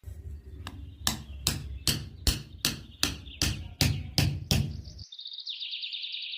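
Hammer blows, about eleven evenly spaced knocks a little over two a second over a low rumble, stopping abruptly about five seconds in. A rapid high chirping trill follows near the end.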